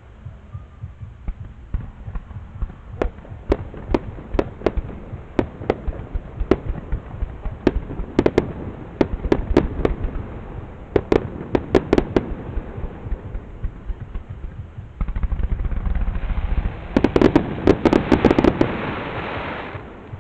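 Fireworks bursting: sharp bangs at irregular intervals, then about fifteen seconds in a dense, rapid crackling barrage that grows louder and stops suddenly near the end.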